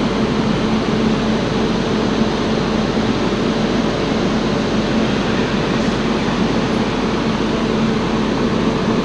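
Train noise: a loud, steady running sound with a constant hum underneath, unchanging throughout.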